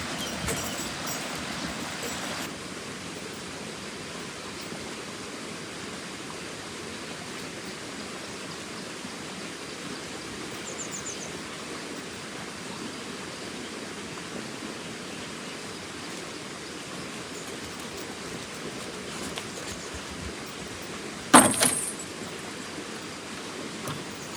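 A steady, even rushing noise, with one loud sharp knock near the end.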